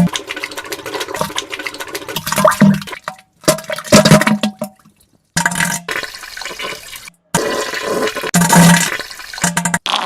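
A string of spliced diarrhea and fart sound effects: wet sputtering and splashing into a toilet, with some low farting tones. Each clip starts and cuts off abruptly, about five in a row with short silences between.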